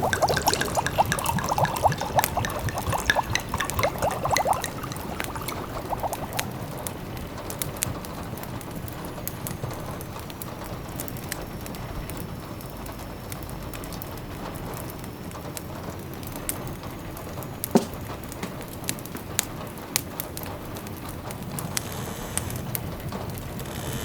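Sound-effect ambience of liquid bubbling and pouring for the first few seconds, then a steady patter of rain with scattered crackles of a wood fire. One sharper pop comes about 18 seconds in.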